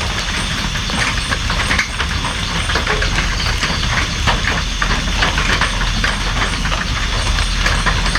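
Steady rain falling, with many separate drops tapping sharply on a surface close by over a continuous hiss and a low rumble underneath.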